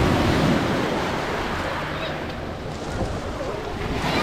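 Wind buffeting the microphone over the sea, with water rushing and a low steady motorboat engine hum beneath.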